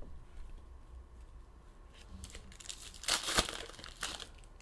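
Foil trading-card pack wrapper crinkling and tearing as a pack is handled and opened, in one dense crackly stretch about three seconds in, after a few faint ticks.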